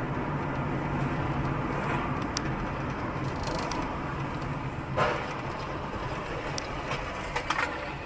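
Motor vehicle running with steady engine and road noise. A few short knocks come about five seconds in and again near the end.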